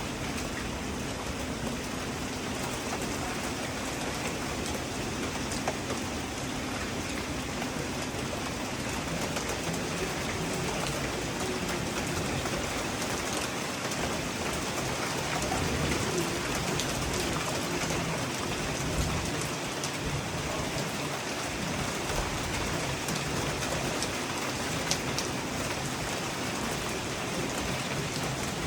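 Steady rain falling, an even hiss with a few sharper drop taps.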